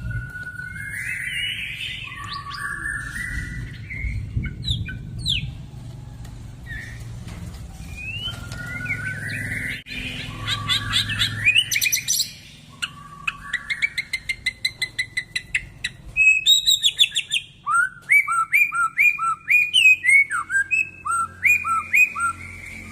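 White-rumped shama singing a varied, loud song of rising whistled sweeps and rapid trills, with a brief gap about halfway through, then a quick series of short repeated notes near the end.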